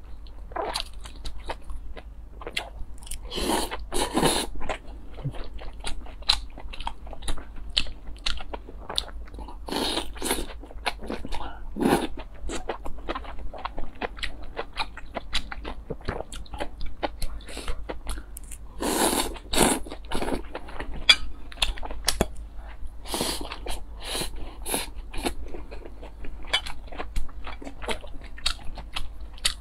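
Close-miked eating: a person biting and chewing food with a steady run of small crunches, and several louder bites a few seconds apart.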